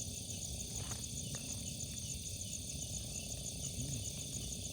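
Crickets trilling steadily in a fast, high pulsing chirp, over a low rumbling background noise.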